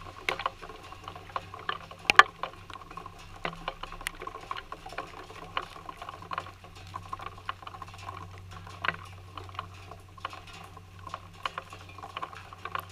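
Rain dripping onto a wet wooden deck: irregular small drops ticking and pattering, with one sharper drop about two seconds in, over a faint steady low hum.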